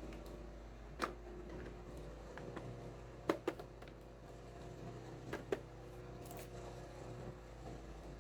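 A few light, sharp clicks and taps of small plastic toy pieces being handled and set down: one about a second in, then two quick pairs, over a faint steady hum.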